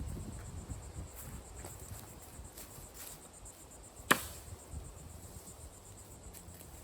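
Insects calling steadily in a high-pitched drone, with one sharp knock about four seconds in.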